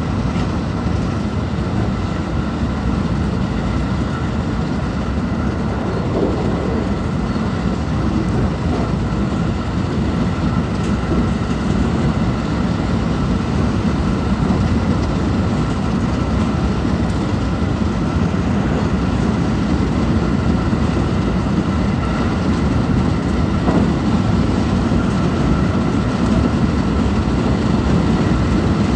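JR West 223 series electric train running, heard from inside the passenger car: a steady rumble of wheels on rail with a faint steady whine, growing slightly louder over the stretch.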